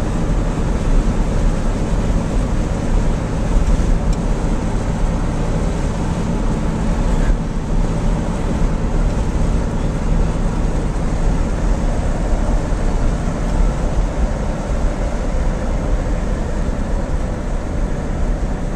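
Steady wind and road noise from a car being driven, loudest at the low end and without a break.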